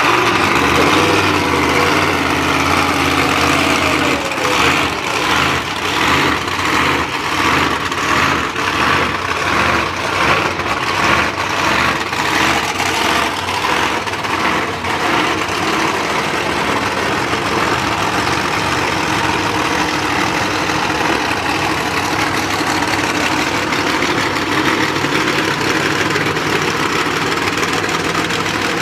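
Several monster truck engines running together just after being started, idling loudly with an even, throbbing pulse that settles into a steadier drone in the second half.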